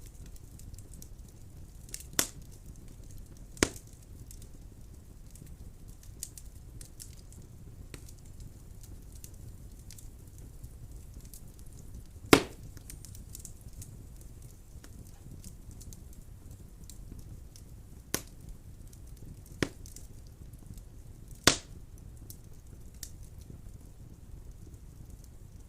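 Wood burning in a fireplace: a steady low rumble with scattered faint crackles and six sharp pops, the loudest about twelve seconds in.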